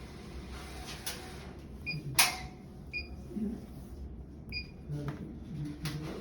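Three short, high electronic beeps, with a sharp click between the first two, over a steady low hum.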